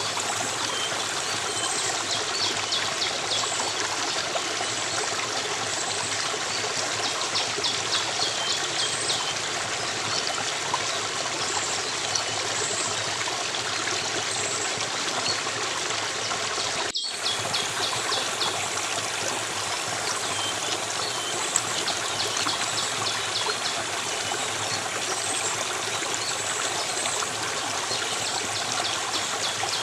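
Steady rush and trickle of running stream water, with small birds repeating short high chirping trills over it. The sound drops out for an instant a little past halfway, then carries on unchanged.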